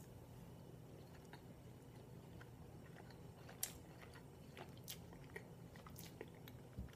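A person chewing a soft, chewy peanut-butter protein cookie, faint and close, with a few brief mouth clicks between about three and a half and six seconds in.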